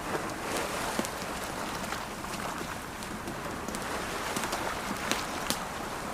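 Wood campfire crackling, with scattered sharp pops at irregular intervals, over a steady wash of ocean waves.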